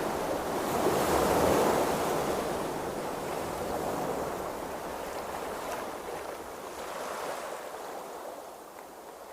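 Sea waves washing and rushing, swelling to their loudest about a second in, then slowly easing off.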